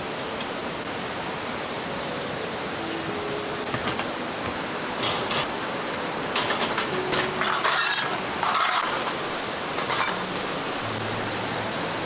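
Steady rushing of a swollen mountain stream running high with monsoon rain. Between about five and nine seconds in, a few short clatters and rustles of handling sounds cut across it.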